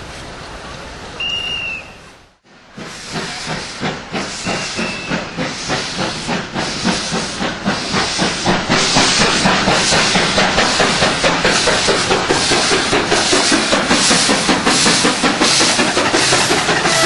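Pacific (4-6-2) steam locomotive hissing steam, then, after a sudden cut, working away with an even run of exhaust chuffs that grows louder over several seconds and holds steady.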